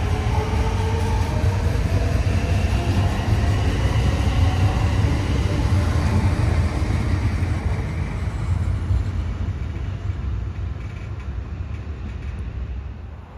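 A train rumbling past on the track, with a whining tone over the rumble; the sound fades away over the last few seconds.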